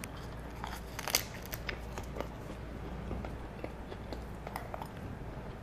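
Close-up eating sounds: a person chewing and biting food, with scattered small crunches and clicks, the sharpest about a second in.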